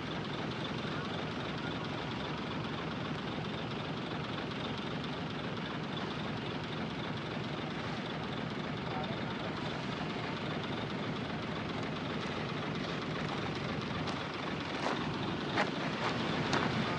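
Heavy diesel construction machinery running steadily, with a few short sharp clanks near the end.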